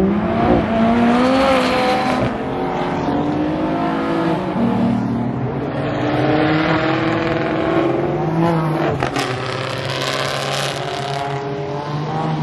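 Several sports cars accelerate hard past, one after another, starting with a McLaren. Their engines climb and drop in pitch through gear changes. A single sharp crack comes about nine seconds in.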